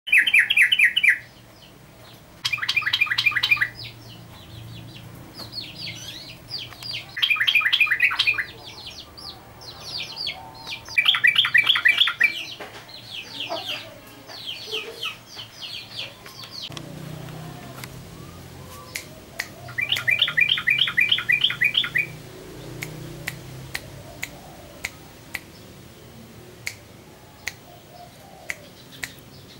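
Yellow-vented bulbul (trucukan) singing: short bursts of rapid repeated notes, each about a second long, every few seconds, with softer chirps in between. A string of sharp single clicks follows near the end.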